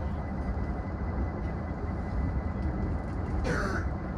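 Steady low hum inside the rear cab of a stopped E233 series electric train, with a faint thin whine above it. A brief hiss comes about three and a half seconds in.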